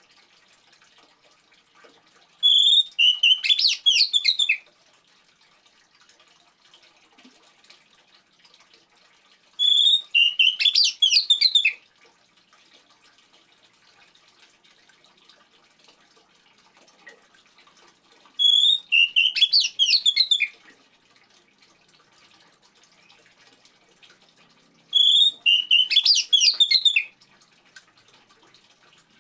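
Oriental magpie-robin (kacer) singing four short phrases of quick, varied notes, each about two seconds long and opening with a clear whistled note, spaced several seconds apart. Faint trickling water runs underneath.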